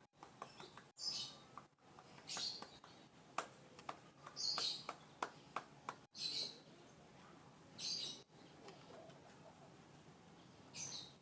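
A caged songbird giving short, high chirps, about six of them a second or two apart, with faint clicks in between.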